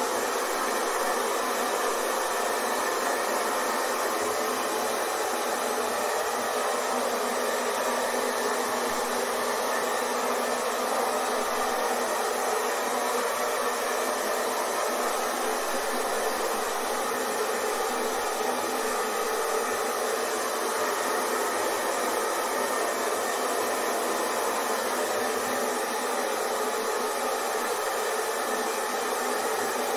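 Hair dryer running steadily: an unbroken airy whoosh with a faint motor whine, with no change in level or pitch, used as white noise to soothe a baby to sleep.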